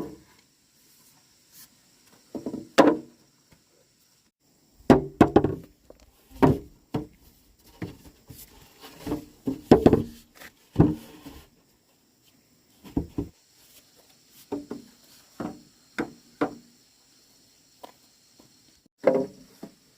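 Irregular wooden knocks and thuds, single blows and quick clusters at uneven intervals, with short quiet gaps between.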